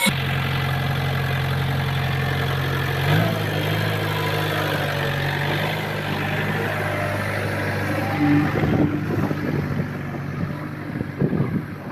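Heavy machine's engine running steadily at a low speed, its note stepping slightly higher about three seconds in.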